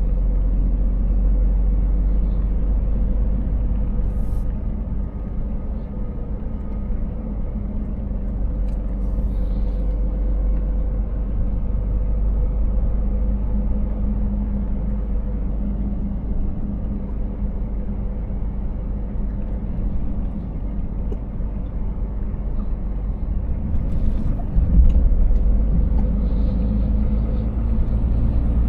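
Scania S 500 truck driving, heard from inside the cab: a steady low drone of its inline-six diesel engine and road rumble, with a few faint clicks and one brief louder knock near the end.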